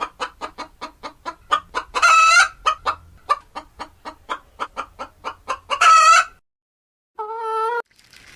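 Chicken clucking in a rapid series, about five clucks a second, broken by three louder drawn-out squawks in the manner of a hen's cackle. After a short pause near the end comes a single lower call.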